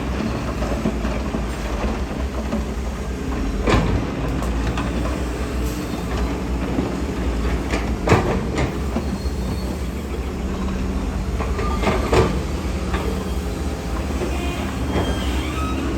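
Diesel engine of a tracked earthmoving machine running steadily under load, with clanking and squealing from its steel tracks and a few sharp metallic knocks about 4, 8 and 12 seconds in.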